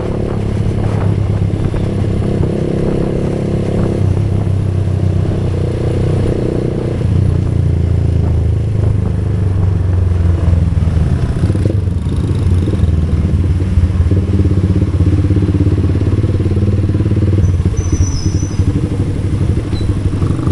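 Motorcycle engine running steadily under way, its note shifting a few times.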